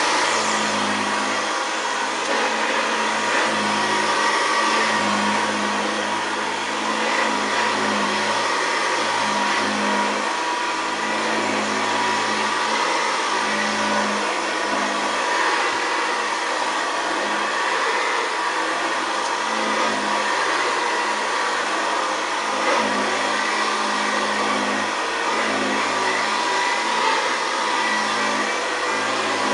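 A 1962 Hoover Senior 652A upright vacuum cleaner running steadily: a growling motor drone with a constant high whine over it.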